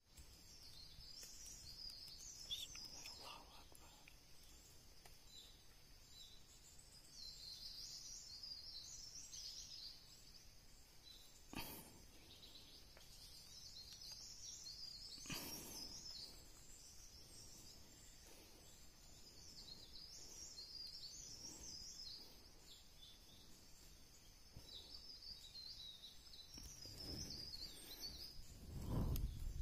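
A flock of small birds calling faintly, with clusters of high chirps and twitters coming again and again. Two sharp clicks are heard, about twelve and fifteen seconds in, and there is a rustle of handling just before the end.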